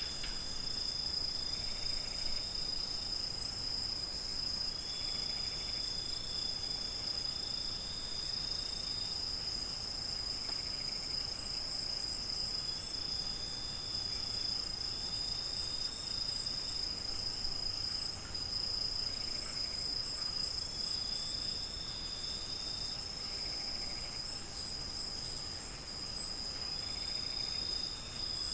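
Night chorus of crickets: a steady, unbroken high trill, with a second, slightly lower trill that starts and stops every few seconds.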